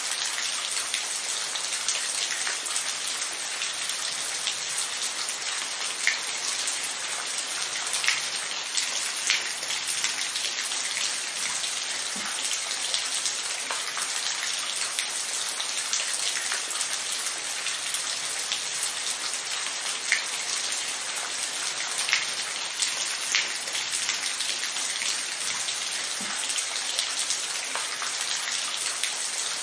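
Steady rain falling, a dense even hiss with scattered louder drops hitting a surface.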